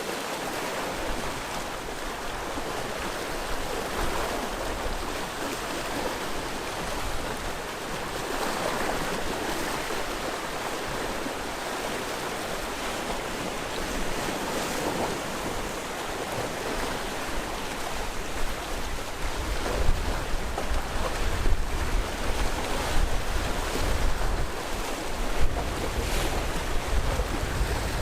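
Sea waves washing and breaking on the shore in a continuous rushing hiss. In the second half, wind gusts buffet the microphone in low rumbles and sudden thumps.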